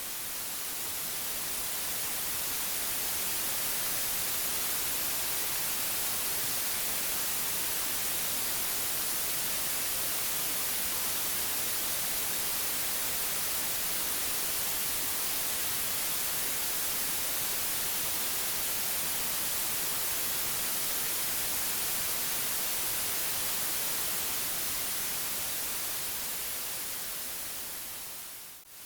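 Steady white noise: an even hiss spread across the whole range, strongest in the highs. It swells in over the first few seconds and fades briefly out at the very end.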